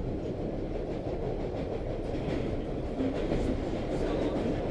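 Subway train running, heard from inside the car: a steady low rumble of wheels and motors on the track.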